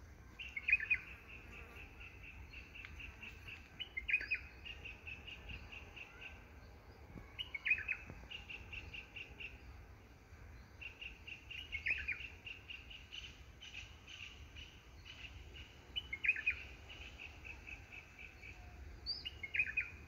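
A songbird singing the same short phrase over and over, about every four seconds: a quick downward slur followed by a fast run of high, even notes.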